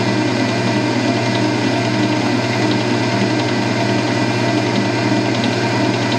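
Kenwood stand mixer's motor running steadily at speed 2, an even hum with a strong low tone.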